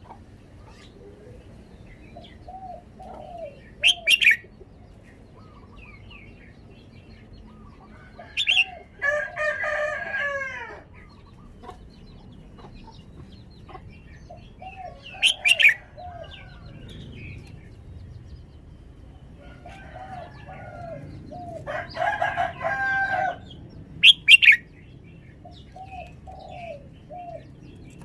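Red-whiskered bulbul calling: four short, loud, high double chirps spaced several seconds apart, with softer low chirps between them.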